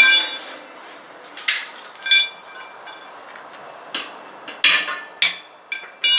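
A metal tool striking a steel truck wheel rim about seven times at uneven intervals. Each blow rings out with the same clear metallic tones.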